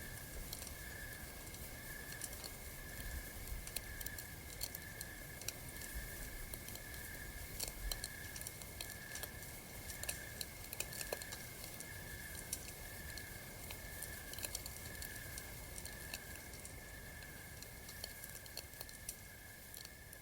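Campfire crackling with frequent sharp pops and snaps, over night insects chirping in a steady pulse a little more than once a second. The ambience eases off slightly in the last few seconds.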